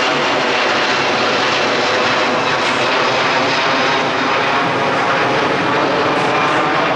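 Airbus A330-200 jet airliner's engines running, a loud, steady rushing noise with faint whining tones in it.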